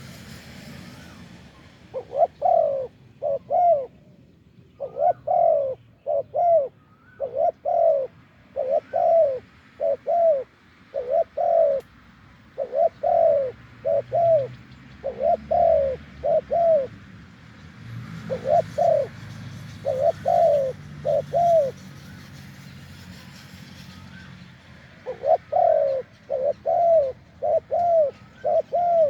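Spotted doves cooing: short, deep coos in quick runs of two to four notes, with pauses between the runs.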